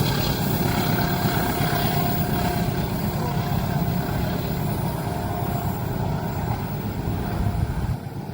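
A train rolling past at a level crossing: a steady heavy rumble of wheels on rail, with a faint thin tone over it in the middle. The rumble drops away sharply near the end.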